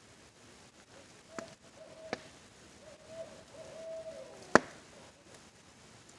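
An owl hooting a short run of wavering hoots over a steady hiss of rain, with campfire crackles: two small pops and one sharp, loud pop about four and a half seconds in.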